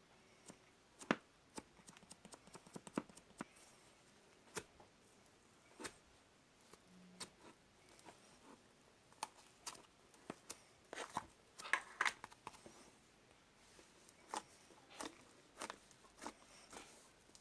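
Slime being squeezed and poked by hand, giving scattered soft clicks and pops, with a quick run of crackling pops about eleven to twelve seconds in.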